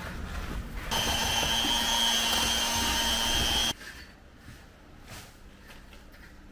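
A power tool's motor running at a steady whine for about three seconds, starting about a second in and cutting off suddenly.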